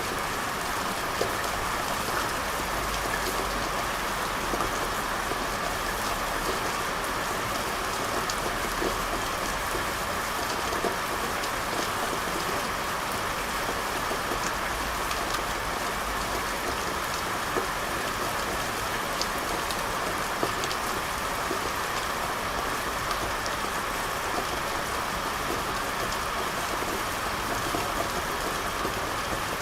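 Steady rain falling on a street, an even hiss with scattered drops ticking on hard surfaces and a low rumble underneath.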